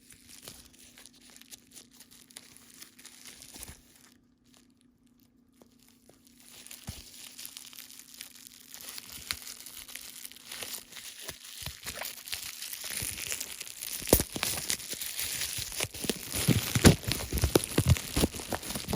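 Plastic wrapping of a CD crinkling and tearing as it is opened, starting about a third of the way in and growing louder, with many small crackles.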